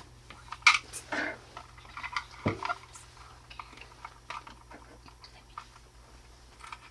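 Small plastic toy pieces being handled and fitted together: a few sharp clicks and taps in the first two and a half seconds, then fainter scattered ticks.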